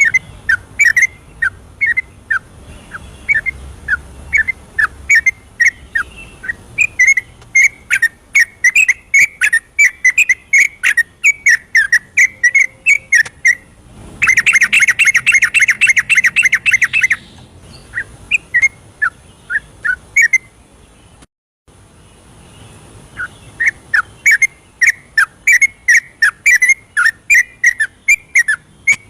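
Yellow-vented bulbul (trucukan) singing a fast, steady stream of short bubbly whistled phrases. Just before the middle comes a dense rapid chattering trill of about three seconds, and the song cuts out for a moment a few seconds later.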